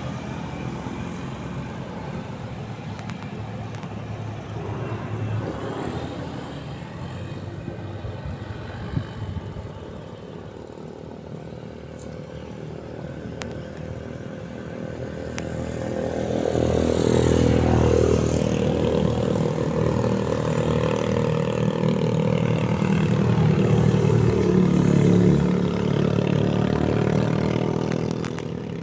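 An engine running steadily, growing louder about halfway through and staying loud until near the end.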